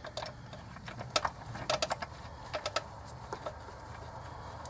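Small metallic clicks and taps, irregular and mostly in the first three seconds, as an intake-manifold bolt is handled and started by hand.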